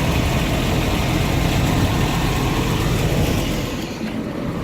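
Caterpillar C7 diesel engine of a Freightliner M2 truck idling steadily, dipping briefly in level near the end.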